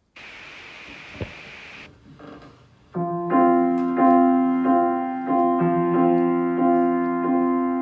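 A steady hiss with a single click for about two seconds, then a piano intro starting about three seconds in, playing the same sustained chord struck over and over at an even pace.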